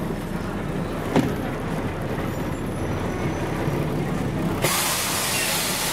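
Scania DSC 11.71 straight-six diesel of a city bus running, heard from inside the cabin, with a single click about a second in. Near the end a sudden loud hiss of compressed air from the bus's pneumatic system cuts in and keeps going.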